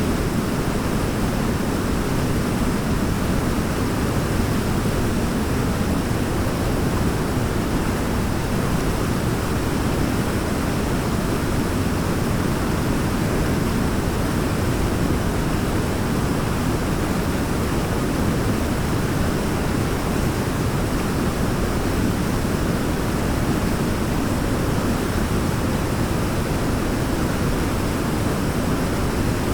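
Waterfall, a steady deep rushing of falling water with no change.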